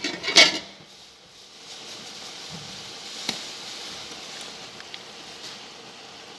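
Mushrooms sizzling steadily in a hot pot as cream is spooned in, opening with a few sharp clatters of a spoon against the pot and a single knock about three seconds in.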